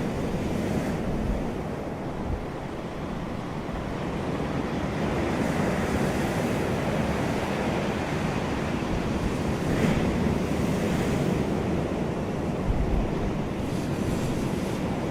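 Ocean waves breaking and washing on a beach in a steady surf rush, with wind buffeting the microphone in low rumbles a couple of times.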